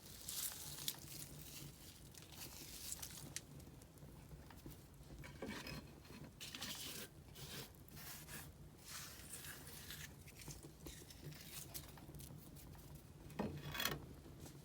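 Firewood burning, crackling and popping irregularly, with a cluster of louder pops near the end.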